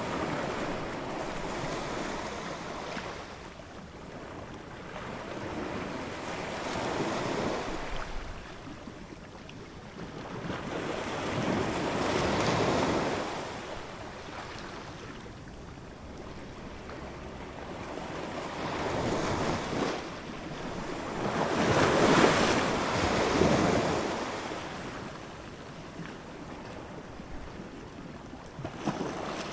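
Ocean waves washing ashore in slow, repeated surges of surf, each swelling and fading over a few seconds; the loudest comes about three-quarters of the way through.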